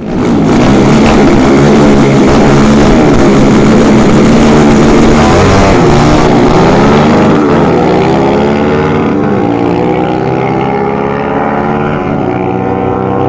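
Drag-racing motorcycle engines at full throttle, coming in suddenly and loud, their pitch dipping and climbing again several times; a little quieter in the second half.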